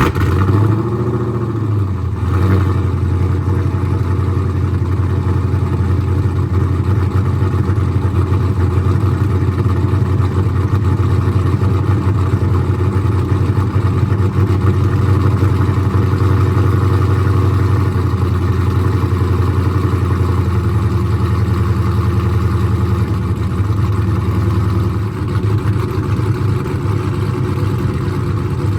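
Cold start of a cammed 6.1-litre Hemi V8 in a Chrysler 300 SRT8 with an aftermarket exhaust: the engine flares up in revs in the first couple of seconds after catching, then settles into a steady fast cold idle that drops slightly about twenty seconds in.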